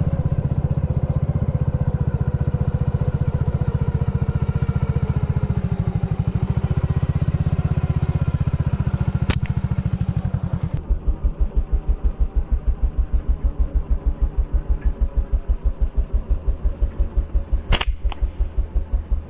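Motorbike engine running with a fast, steady pulse. About halfway through it switches abruptly to a slower, lower idle of about four or five pulses a second. Two sharp snaps cut through, one shortly before the switch and one near the end.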